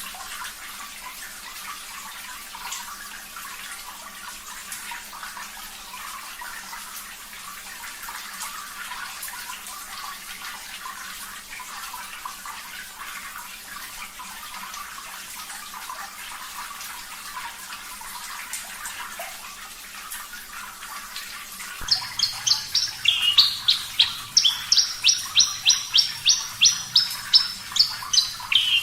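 A steady hiss of running water, then about 22 seconds in a Javan bush lark (branjangan) starts singing over it: a fast, loud series of high chirping notes, about four a second.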